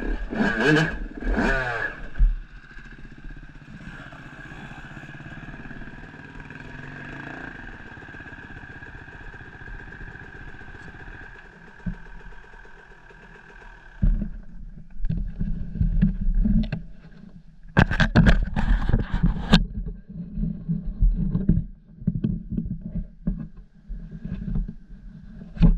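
Motorcycle engine revving hard, then running steadily at lower revs for several seconds. About halfway through it gives way to low, gusty rumbling with scattered clattering knocks, loudest a few seconds later.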